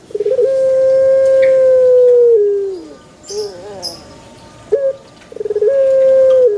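Puter pelung turtle dove cooing: two long coos, each opening with a quick stuttering run and then a drawn-out steady note that drops in pitch at the end, with a shorter wavering coo between them.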